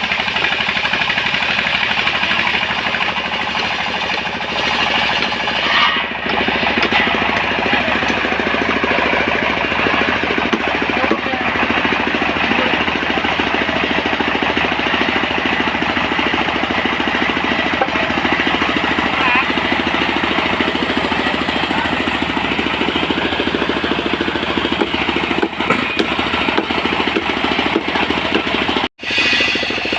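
Engine of a portable sawmill running steadily at full working speed, a dense mechanical drone with a noisy hiss above it. It cuts out for a split second near the end.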